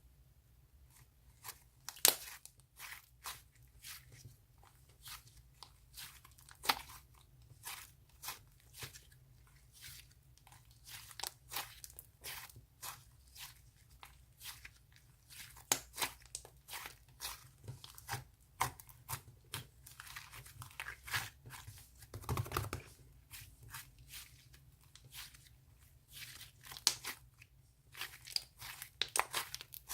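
Slime being squeezed, stretched and pulled apart by hand, making irregular sticky crackles, pops and tearing sounds, several a second, with a few louder snaps.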